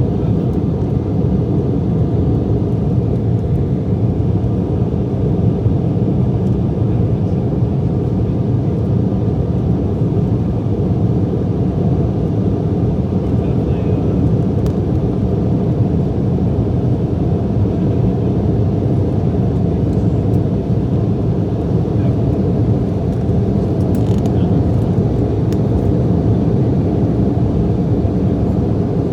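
Steady low rumble of jet engines and rushing air inside the cabin of an Embraer E175 airliner climbing after takeoff.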